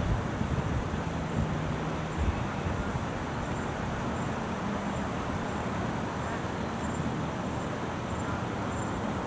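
Steady road traffic noise: vehicles driving past on a busy arterial road, with a low engine hum about one to two seconds in.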